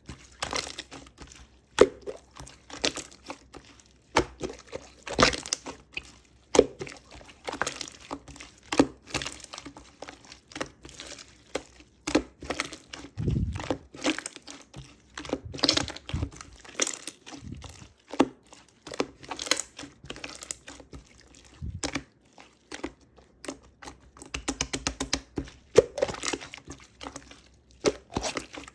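Clear slime being squished and stretched by hand, making irregular crackling and popping clicks with an occasional soft low thud.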